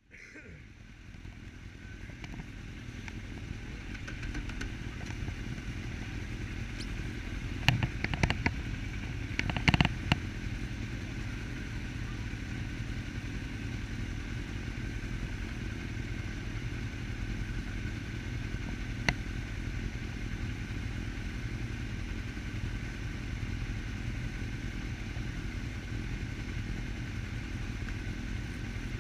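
Suzuki SV650S V-twin motorcycle engine running steadily, with a few sharp clattering knocks about eight and ten seconds in and once more near the middle.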